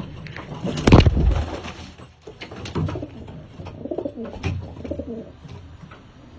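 Domestic pigeons cooing, repeated low calls, with a loud short burst of noise about a second in and scattered light clicks.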